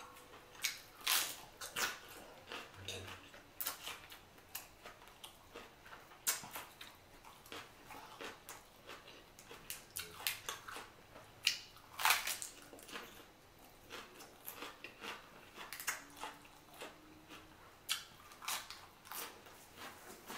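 Close-miked chewing and lip smacking while eating boiled chicken: short wet mouth clicks and smacks at an irregular pace.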